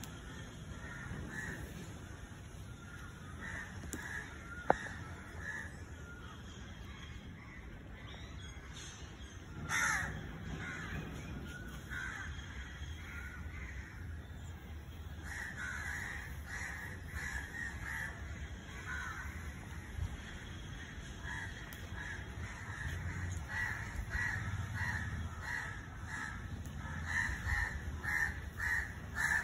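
Birds calling in runs of short, repeated calls, sparse at first and more frequent in the second half. One sharp click sounds about five seconds in.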